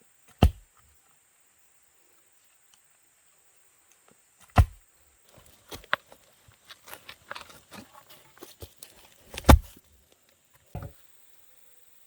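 Three sharp, heavy knocks with a deep thud to each, spaced a few seconds apart, with a scatter of lighter clicks and knocks between the second and third and a softer knock near the end.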